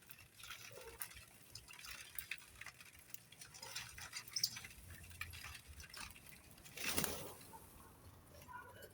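Birds pecking and moving about: light, scattered taps and scratches, with a brief rustle about seven seconds in.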